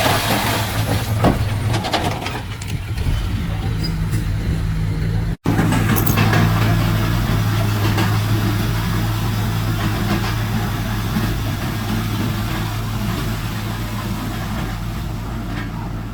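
Heavy diesel engine of earthmoving machinery running steadily, with a few knocks and clanks in the first seconds. The sound cuts out briefly about five seconds in.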